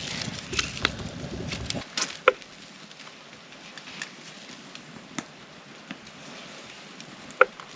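Rain pattering, with scattered drops ticking and two sharper ticks, about two seconds in and near the end.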